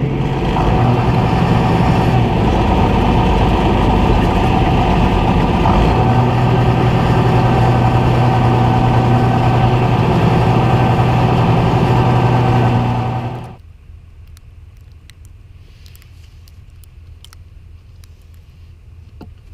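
A vehicle engine running steadily, loud, then stopping abruptly about two-thirds of the way through, leaving only a faint background with a few small clicks.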